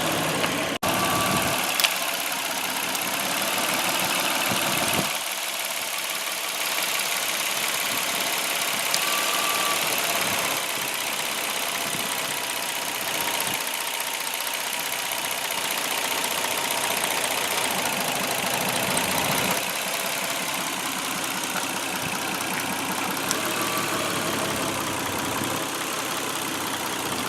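2003 Lexus ES300's 3.0-litre V6 engine idling steadily.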